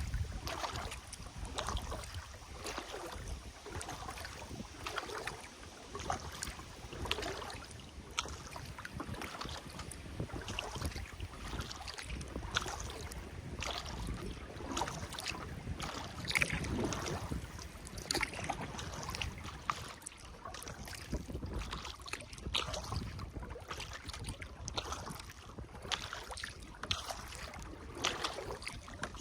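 Kayak paddle dipping and pulling through river water, with small splashes and drips from the blade, and some wind rumble on the microphone.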